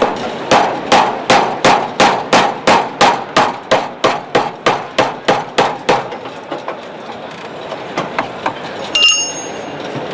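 Hammer blows on the steel bodywork of a Triumph TR7, about three sharp strikes a second for some six seconds, as a panel is beaten free. A few lighter taps follow, then one ringing metallic clang near the end.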